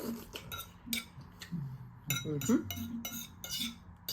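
Eating utensils clinking and scraping against a dish as food is eaten, heard as a run of short clicks that come more often in the second half.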